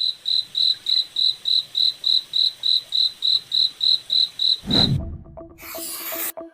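A cricket chirping at an even rhythm, about three and a half short high-pitched chirps a second. The chirping stops with a brief low whoosh near the end, and faint music begins.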